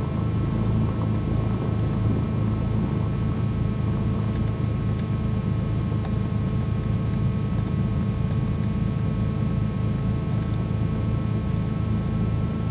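Twin piston engines of a Cessna 310Q idling on the ground, heard from inside the cockpit as a steady low drone with a few constant higher tones.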